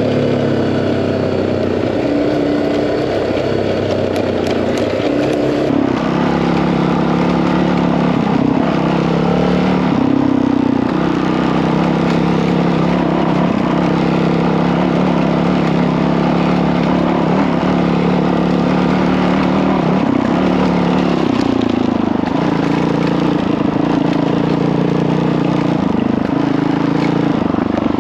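Honda CRF dirt bike's single-cylinder four-stroke engine running under way on a trail ride, its pitch stepping up and down several times as the throttle opens and closes, over a rushing noise of wind and tyres.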